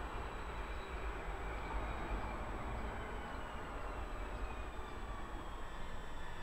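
Purple Pågatåg electric multiple unit moving away along the platform: a steady rumble of wheels on the rails, with a faint whine that glides in pitch.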